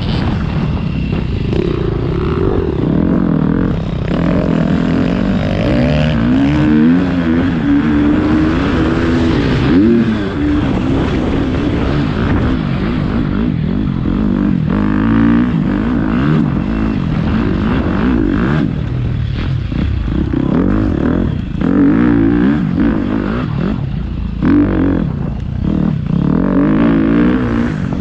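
Motocross dirt bike engine being ridden hard, revving up and falling off over and over as the throttle opens and closes through the track.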